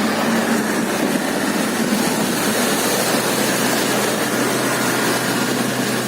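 Toyota Land Cruiser engine running steadily while driving off-road, under a constant dense hiss and rustle of noise.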